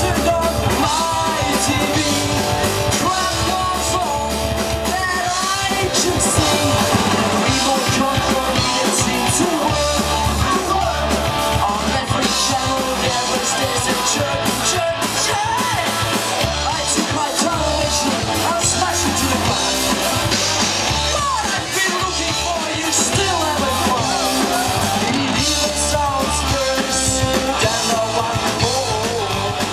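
Punk rock band playing live: distorted electric guitars, bass and drum kit, with a singer singing and yelling over them.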